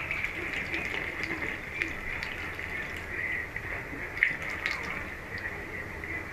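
Water from a tap running in a thin steady stream into a washbasin, with small drips and splashes scattered through it.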